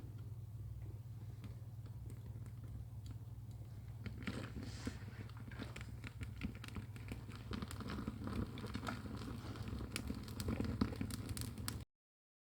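Small wood fire catching in a firebox, crackling and popping with sharp snaps that grow more frequent as it takes hold, over a steady low hum. The sound cuts off abruptly near the end.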